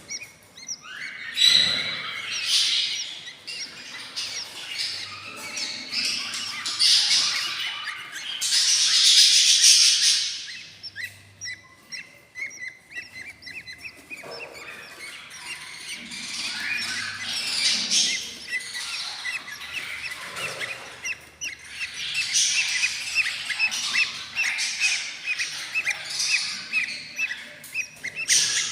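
Budgie chicks about eight days old chirping and rasping inside a nest box: hungry begging calls, many short chirps overlapping, with a loud harsh rasping spell partway through.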